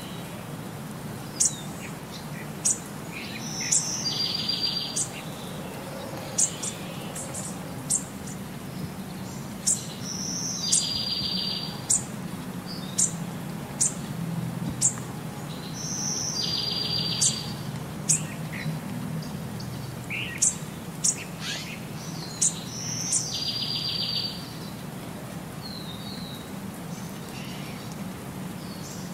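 Birds chirping: short sharp high chirps every second or so, with a brief buzzing trill that comes back about every six seconds.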